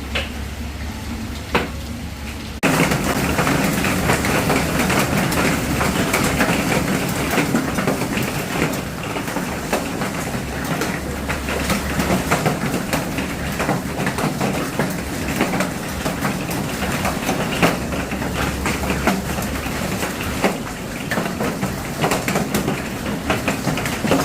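Heavy hail pelting down, a dense continuous clatter of countless stone impacts; it gets suddenly louder about two and a half seconds in.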